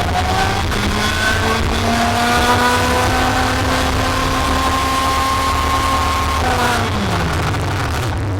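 Racing kart engine pulling hard, its pitch climbing steadily for several seconds, then dropping sharply about seven seconds in as the throttle is lifted, over a constant low drone.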